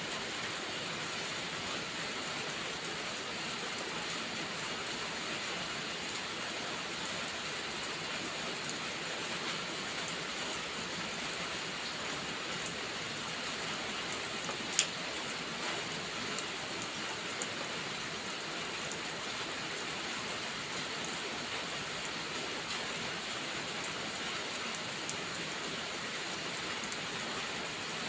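Steady rain falling, an even hiss of drops. A single sharp click stands out about halfway through, and a fainter one a couple of seconds later.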